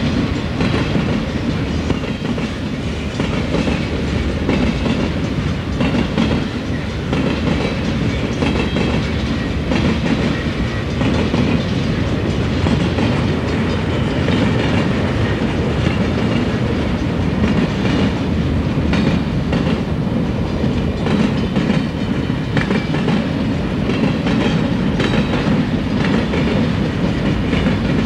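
Freight train cars rolling past close by: a steady low rumble with the clatter of steel wheels over the rails.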